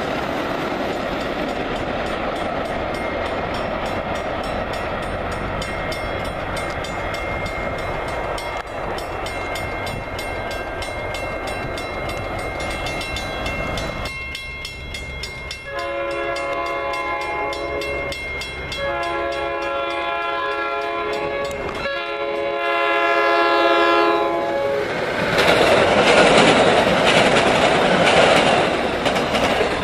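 A commuter train rumbling and clattering past a grade crossing. After about 14 s a train horn sounds three long blasts, and near the end the loud rumble of a train drawing close.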